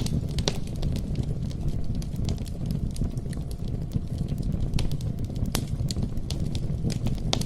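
Wood campfire burning: a steady low rumble of flames with irregular sharp crackles and pops.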